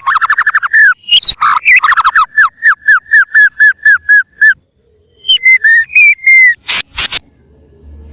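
White-rumped shama (murai batu) singing loudly. It opens with a fast trill of falling notes and a long run of repeated sharp notes, about five a second, then gives a few clear slurred whistles and two or three harsh clicking calls near the end.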